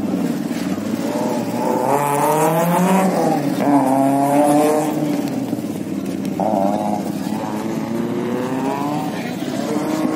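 Car engine revving, its pitch rising and falling in long sweeps.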